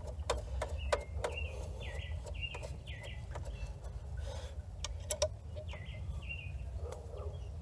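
A bird chirping outdoors: a run of short, quick, downward-sweeping chirps that thin out in the middle and pick up again, over a steady low background rumble. A few light clicks sound in between.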